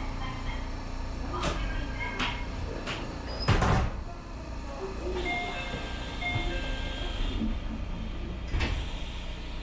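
Electric commuter train heard from the cab: a steady low running hum with several sharp knocks, the loudest about three and a half seconds in. Short electronic tone-like notes sound on and off.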